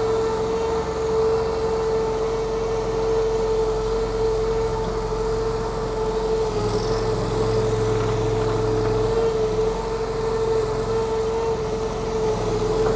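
Small engine of a stand-on mini skid steer running steadily at working throttle while the machine drives and turns. A steady whine sits over the engine note, and the low drone swells for a few seconds midway.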